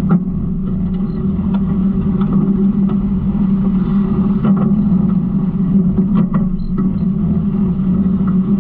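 Garbage truck engine running steadily, with scattered clanks and rattles over it.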